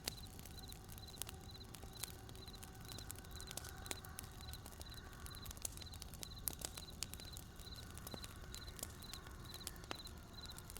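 Wood campfire crackling with irregular sharp pops over a low steady rumble, while a cricket chirps steadily in short pulsed chirps, about two a second.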